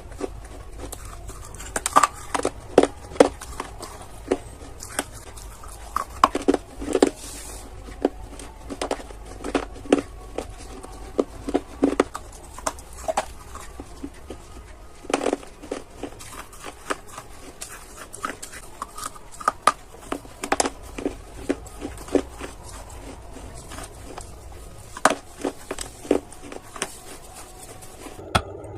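Hard dry clay being bitten and chewed close to the microphone: irregular sharp crunches, several a second, with a steady low hum underneath.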